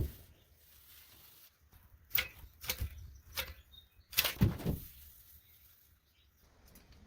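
A handful of separate knocks and thuds, irregularly spaced, from someone working by hand; the loudest pair comes about four seconds in, and the rest of the time is quiet room tone.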